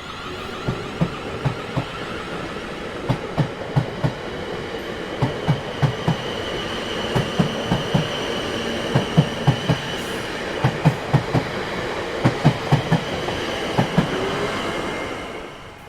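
Train rolling past over rail joints: a steady rumble with wheels clicking in quick groups of two and three (clickety-clack), and a thin high wheel squeal through the middle. It fades out suddenly near the end.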